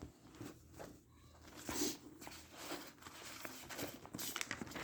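Faint rustling and handling noises: a few soft scrapes and shuffles, the most noticeable about two seconds in and near the end.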